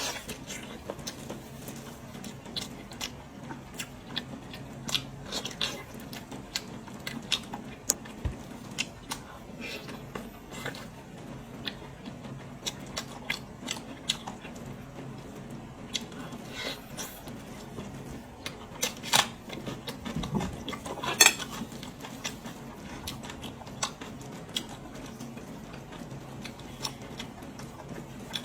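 Close-up eating sounds: a person biting and chewing pig's ear, with irregular crunchy snaps and clicks of the cartilage over a steady low hum.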